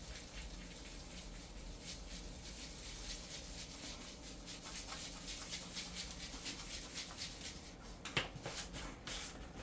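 Hands rubbing seasoning into raw meat: faint, quick rubbing strokes.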